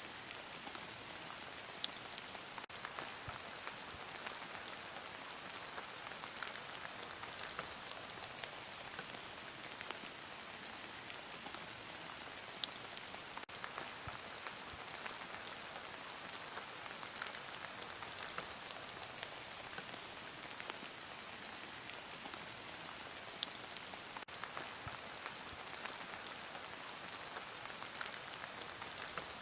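Heavy rain falling steadily, an even hiss with many scattered individual drops ticking on a surface.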